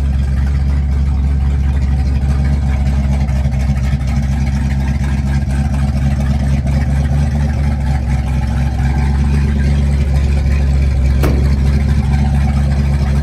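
1958 Plymouth Fury's fuel-injected 350 Golden Commando V8 idling steadily through its exhaust, low and even with no revving. A single sharp click about eleven seconds in.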